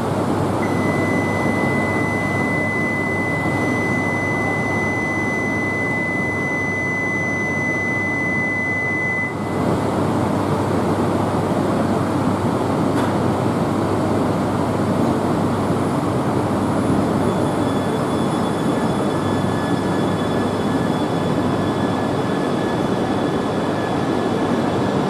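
Shinkansen train of E2- and E3-series cars at the platform, starting to pull out: a steady rushing noise throughout. A steady high beep is held for about nine seconds and then stops. From about halfway on, faint high whines join as the train gets moving.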